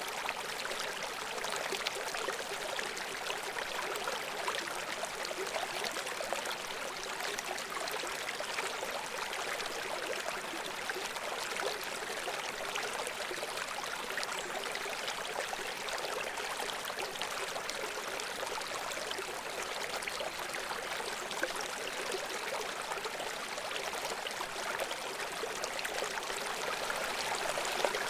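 Babbling brook: shallow water flowing and trickling over stones in a steady, even rush.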